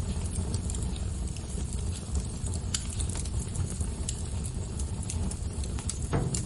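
Fire crackling: irregular sharp pops and snaps over a low, steady rumble, with a slightly longer crackle near the end.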